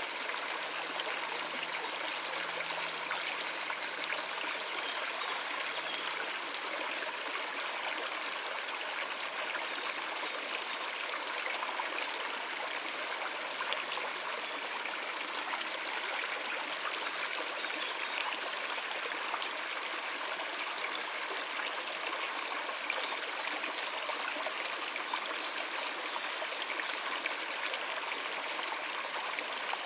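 Water running over rocks in a stream: a steady, even rush and trickle.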